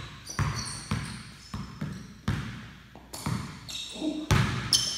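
Basketball dribbled on a hardwood gym floor, about two bounces a second, each bounce echoing through the large hall, with short sneaker squeaks between them; the loudest bounces come near the end as the player drives.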